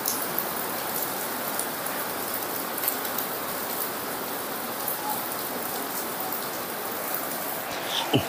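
Heavy rain falling, a steady dense hiss. A brief high squeak comes near the end.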